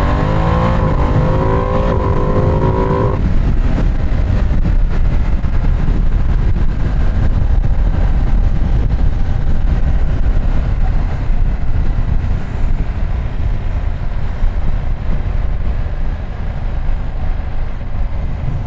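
Ducati Streetfighter V2 S L-twin engine pulling hard, its note rising for about three seconds before easing off. After that the engine runs under a steady rush of wind on the microphone at road speed.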